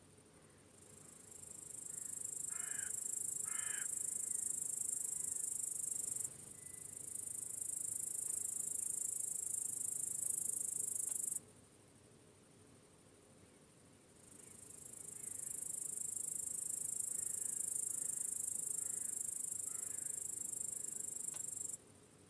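A singing insect producing a high-pitched, continuous buzzing trill in three long bouts. Each bout builds up over a second or so and then cuts off suddenly, about 6, 11 and 22 seconds in. A few faint short chirps sound about three seconds in and again near the end.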